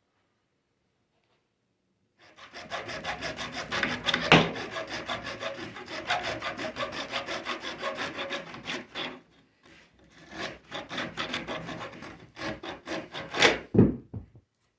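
A hand saw cutting through 1.5-inch PVC pipe in quick back-and-forth strokes, starting about two seconds in and pausing briefly once before the cut is finished.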